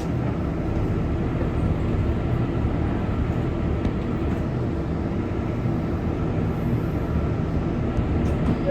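R188 subway train running between stations, heard from inside the car: a steady rumble of wheels on rail and running gear.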